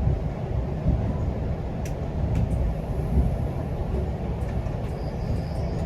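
GO Transit commuter train running between stations: a steady low rumble with a few faint clicks. A faint high whine comes in about five seconds in.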